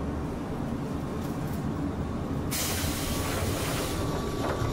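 Electric train running on rails with a steady low rumble. About two and a half seconds in, a hiss comes in over it and holds, along with a faint steady whine.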